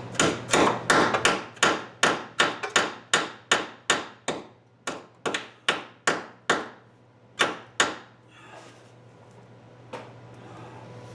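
Hammer striking a nut welded onto a broken, rusted bolt stub in a 1972 VW Beetle's torque rod housing: about two dozen quick blows, roughly three a second, each ringing briefly. The blows stop about eight seconds in.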